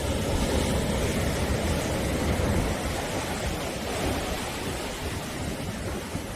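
Sea waves washing onto the shore, a continuous rush of surf that swells louder over the first few seconds and eases off toward the end.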